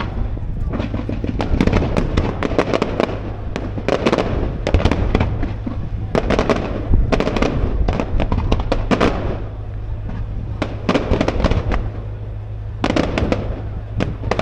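Firework display: rapid crackling salvos of exploding shells in dense clusters, one after another every couple of seconds with short lulls between.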